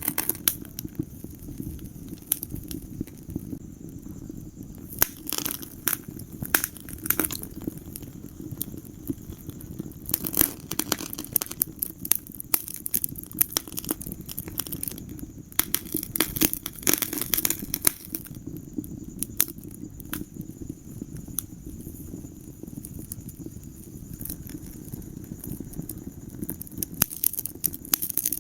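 Wood fire burning in a fireplace: irregular sharp crackles and pops, coming in thicker flurries every few seconds, over a steady low rumble of flame.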